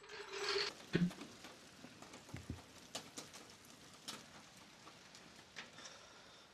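Scattered, irregular taps of the first hailstones of a storm striking a roof. A faint mechanical hum stops about half a second in.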